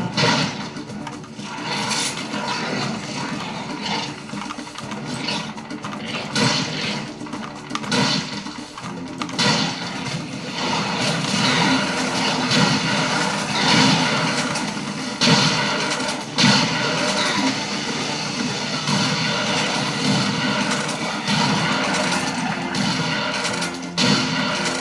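Video game combat audio played back through the Armaggeddon X-Bar 2 gaming soundbar: repeated gunshots and blasts over a continuous dense background of battle noise and music.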